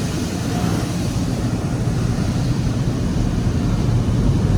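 Car wash air-dryer blowers running with a steady low rush, heard from inside the car's cabin, getting gradually louder toward the end.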